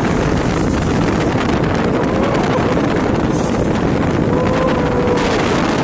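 Speedboat running at speed, its engine and rushing water under heavy wind buffeting on the microphone, a loud, steady noise.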